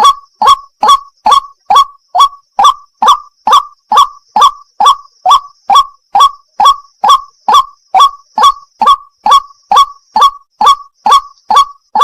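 White-breasted waterhen (wak-wak) calling: a long, very even run of identical loud 'wak' notes, a little over two a second, with a faint steady high tone behind them.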